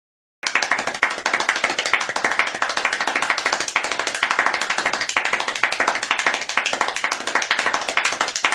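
Applause sound effect: many hands clapping in a dense patter. It starts abruptly about half a second in and cuts off suddenly at the end.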